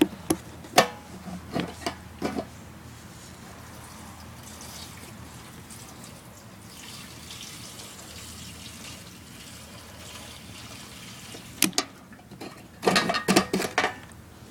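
Gasoline poured from a can into a lawn tractor's fuel tank, a faint steady trickle. A few knocks and clinks come at the start and again near the end.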